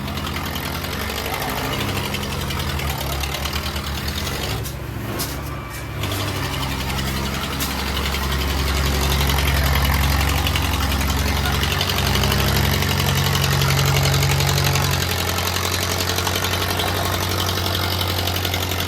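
Tractor's diesel engine running steadily, pulling harder and louder for several seconds in the middle, then easing back.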